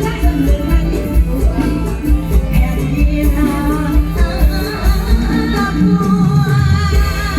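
Live Thai luk thung band playing with a steady drum beat, a voice singing over it.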